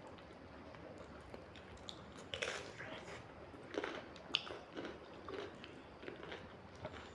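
Two people chewing and biting food, one gnawing meat off a chicken leg: soft wet mouth sounds with a few short, sharper clicks, the sharpest about four seconds in.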